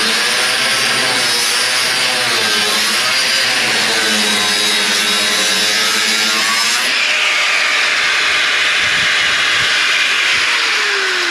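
A power saw cutting through the car body's sheet-metal hinge pillar, its motor pitch wavering under load. About seven seconds in the sound changes, and near the end the motor winds down with a falling pitch.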